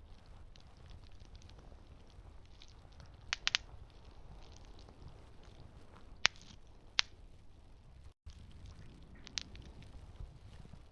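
Campfire burning, with a low steady rumble and sharp wood pops and crackles. There is a quick cluster of three pops a few seconds in, two louder single pops about halfway through, and another near the end. The sound cuts out for an instant shortly after the second loud pop.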